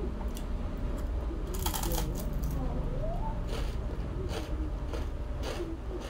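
Close-miked crunching and chewing of a crispy fried rice cake: a quick run of crunches about a second and a half in, then single crisp crunches every second or so.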